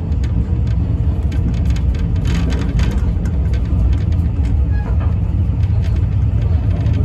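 Train running: a steady low rumble with frequent small clicks and knocks over it.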